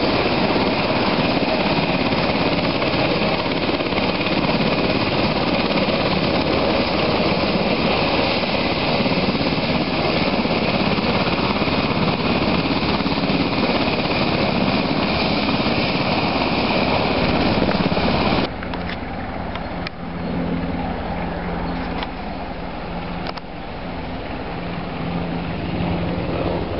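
Military helicopter running loud and steady, its rotor and turbine noise carrying a thin high whine. About two-thirds of the way through it cuts off abruptly, and a quieter steady engine hum follows.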